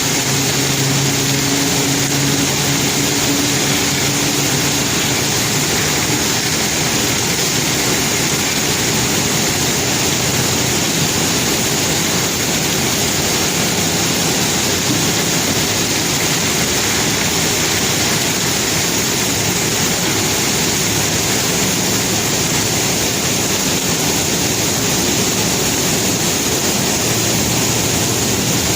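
Conveyor belts carrying rock, a loud steady rushing machinery noise with no breaks; a faint low hum sits under it for the first few seconds.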